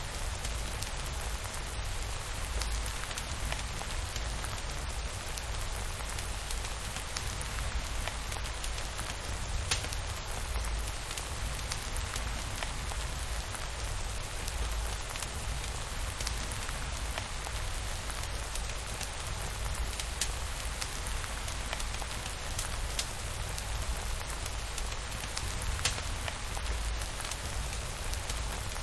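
Steady rain falling on a surface, with scattered drop ticks and a constant low rumble underneath, and faint crackles from a wood fire.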